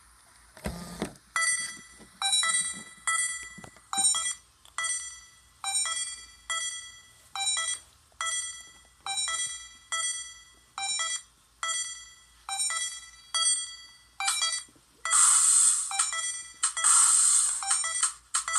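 Electronic loop-based music: a repeating pattern of short, bright, beep-like synth notes, each starting sharply and fading, a little under one a second. About 15 seconds in, a loud hissing noise layer joins it.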